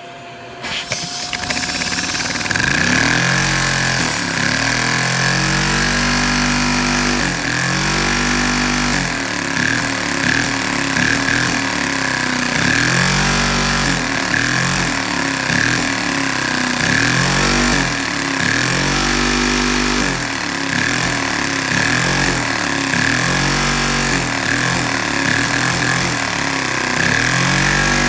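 Vacuum cleaner motor switched on about a second in, then running with a steady high whine over a lower hum that wavers up and down every second or two.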